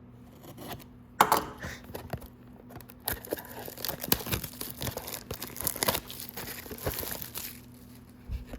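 A trading-card blaster box being torn open: a sharp rip about a second in, then a few seconds of tearing and crinkling of wrapping and packs.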